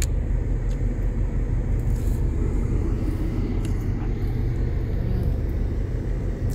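Car engine idling, a steady low rumble heard inside the cabin, with a few faint crinkles from handling an aluminium foil food tray.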